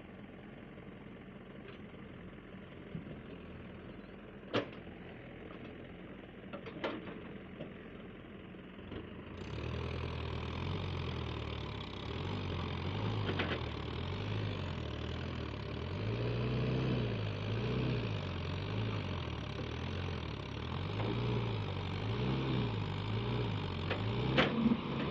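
Diesel engine of heavy farm machinery running steadily at first. From about nine seconds in it is louder and revs up and down again and again under load, as in a recovery pull. A few sharp knocks are heard along the way.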